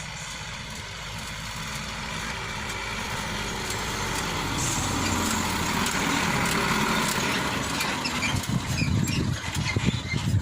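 Heavy diesel engine running and growing steadily louder over several seconds; from about eight seconds in its sound turns into uneven low pulses.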